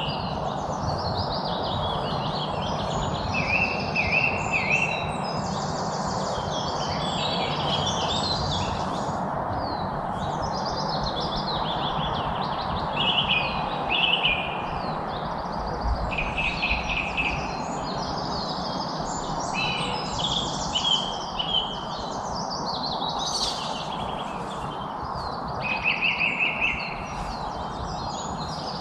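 Many songbirds singing and chirping at once, their calls overlapping densely, over a steady background hiss.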